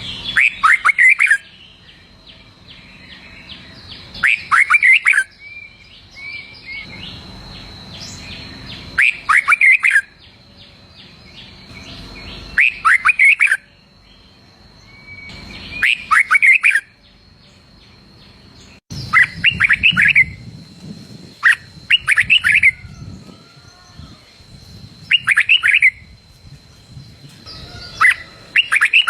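Red-whiskered bulbul singing, repeating a short, bright song phrase about every three to four seconds, nine times. A faint steady high tone runs underneath.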